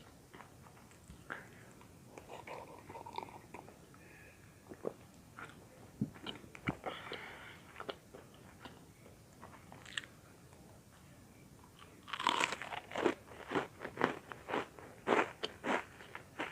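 Crunching and chewing of butter-toasted bread cubes ('bread popcorn'): scattered soft crunches, then a louder run of crisp bites about twelve seconds in.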